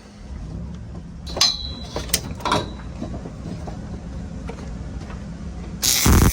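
A few light metal clinks, then near the end a welding arc strikes and crackles loudly as a tack weld is laid on steel roll cage tubing.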